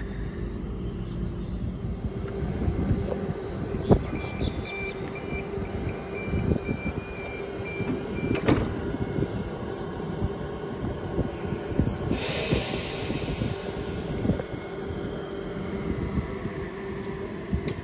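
A Sydney Trains double-deck electric train standing at the platform, its equipment giving a steady hum. A run of repeated high beeps starts about four seconds in, ending with a knock as the doors shut, and a few seconds later a loud hiss of released air comes from the brakes.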